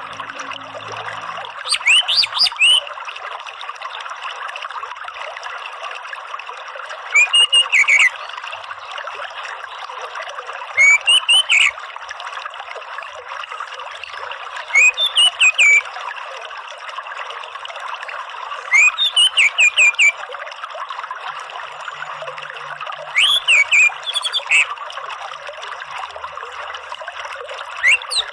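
Orange-headed thrush singing short, loud phrases of quick notes about every four seconds over a steady trickle of running water.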